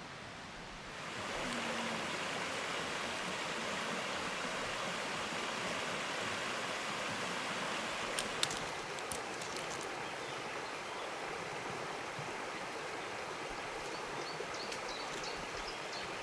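Mountain river rushing steadily, its sound swelling about a second in, with a few sharp clicks about halfway through.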